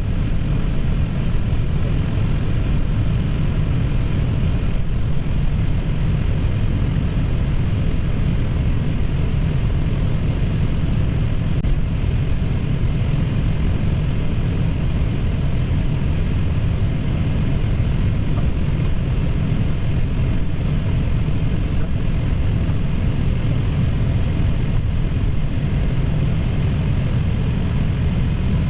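Steady low rumble with a fainter hiss inside an Airbus A320 cockpit while taxiing in: the engines at idle and the ventilation running.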